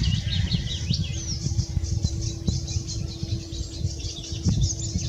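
Small birds singing, with rapid, high chirping notes and trills throughout, over a low, uneven rumble. A faint steady hum sits under them for most of the time.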